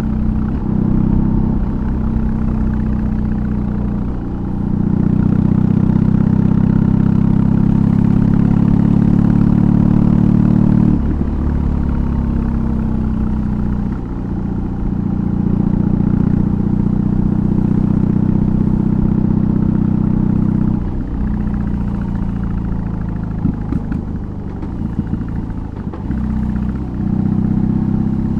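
BMW R18's big boxer twin through a custom exhaust while riding, pulling strongly under throttle with several dips where the throttle closes or a gear is changed. A stretch of crackles comes from the exhaust with the throttle off, about two thirds of the way in, before it pulls again.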